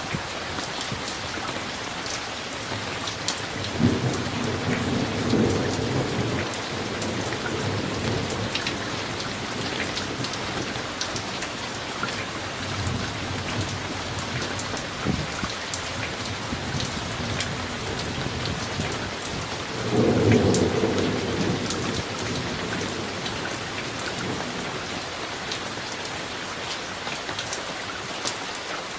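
Steady rain falling on surfaces, with distinct drops ticking, and thunder rumbling twice, about four seconds in and again about twenty seconds in, each rumble a few seconds long and the second one the loudest.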